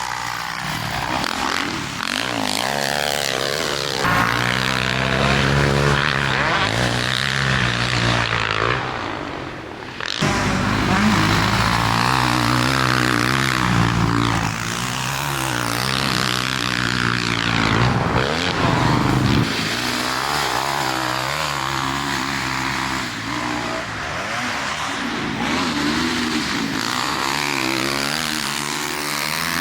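Dirt bike engine revving up and falling back again and again as it is ridden, with a brief drop about ten seconds in.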